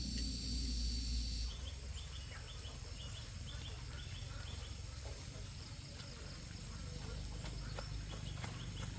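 Outdoor rural ambience with calling insects: a steady high drone that cuts off about one and a half seconds in, then short high chirps repeated in pairs a couple of times a second.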